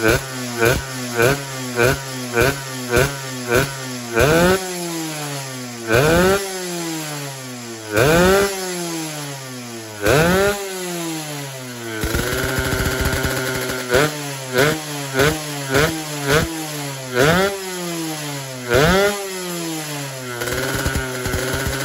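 Yamaha RX-series two-stroke single-cylinder motorcycle engine, fitted with a PWK 33 carburettor, revved in repeated sharp throttle blips that rise quickly and drop back to idle, about two a second at first, then slower, with two short holds at higher revs. The engine is being tested after the carburettor swap.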